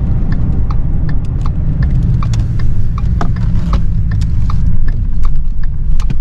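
Truck driving, with a steady low rumble of engine and road noise and a light, regular ticking about two to three times a second.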